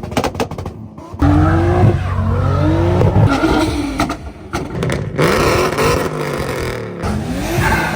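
Car engines revving hard in repeated bursts that rise and fall in pitch, with a quick run of sharp cracks in the first second. The sound breaks off abruptly twice and picks up again.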